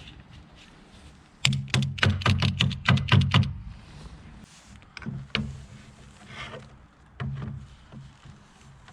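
Hand-tool work on a motorcycle's front end: a quick run of about nine sharp knocks, roughly four a second, then two more single knocks a couple of seconds apart.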